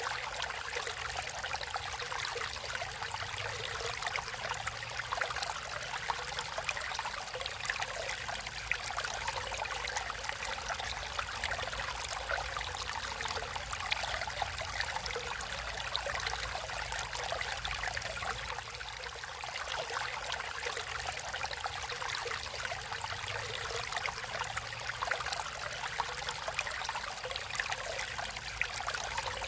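Natural water flowing in a stream, running steadily with a fine, even trickling.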